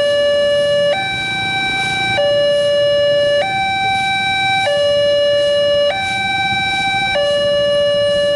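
Railroad level-crossing warning alarm sounding a steady two-tone hi-lo signal, switching between a lower and a higher tone about every 1.2 seconds, the warning that a train is approaching.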